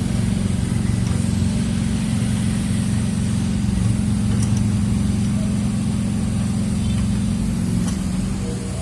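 Daihatsu Sirion's engine running steadily at a constant speed, quietening near the end.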